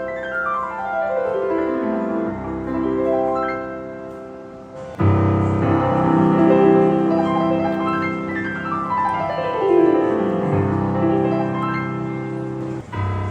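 Digital pianos played in turn: a passage with fast downward runs on one instrument, cut about five seconds in to another playing the same kind of passage, and a third starting near the end.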